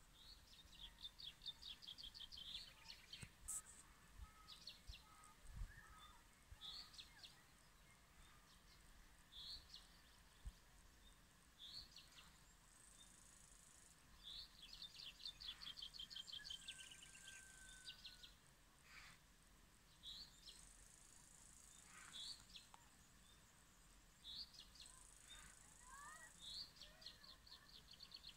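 Faint birdsong outdoors: birds repeating short, quick trilled phrases every second or two, with a high, thin buzzing note of about a second and a half returning several times. A few soft low thumps in the first six seconds.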